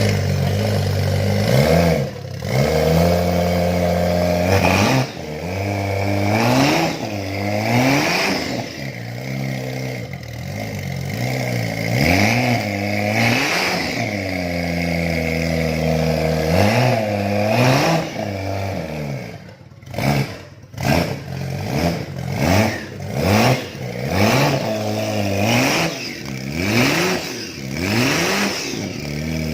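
Toyota 1JZ-GTE twin-turbo straight-six, running on a standalone ECU, revved again and again. Its pitch rises and falls with each blip of the throttle. In the last third the blips come shorter and quicker, about one a second, with the revs dropping back between them.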